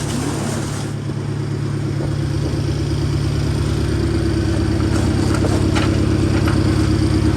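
BMW F10 M5's twin-turbo V8 idling steadily just after starting, getting slightly louder toward the end.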